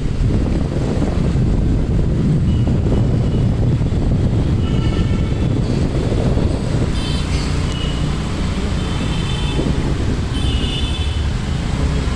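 Dense road traffic rumbling steadily, with wind buffeting the microphone. Vehicle horns honk several times, short toots scattered through the second half.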